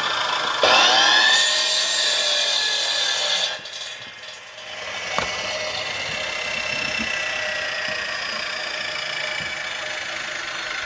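Chainsaw revving up and cutting through firewood for about three seconds, then dropping back to a steady idle, with one sharp click about five seconds in.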